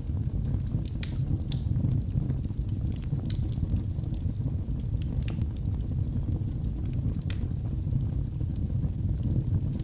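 Wood fire burning in a fireplace: a steady low rumble of flames with scattered sharp crackles and pops from the burning logs, a few stronger ones about a second in, in the middle and near seven seconds.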